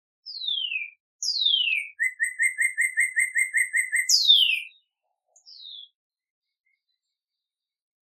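A songbird singing: two clear whistled notes sliding downward, then a fast trill of about a dozen short repeated notes, another downward slur and a faint final note.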